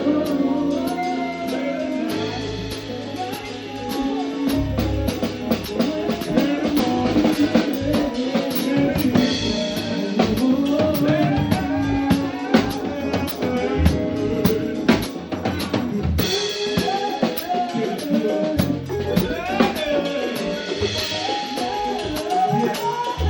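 Live band music: a drum kit with snare and bass drum keeping a steady beat under melodic instruments.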